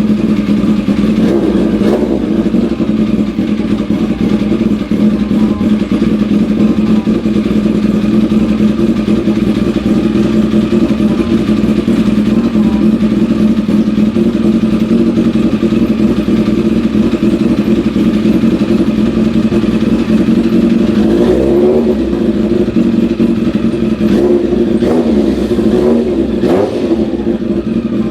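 Kawasaki ZZR1100 (ZX-11) inline-four motorcycle engine idling steadily through its aftermarket Tritek Evox exhaust, being warmed up from cold after sitting unused for several days. A couple of light throttle blips come in the last several seconds, and the sound cuts off suddenly at the end.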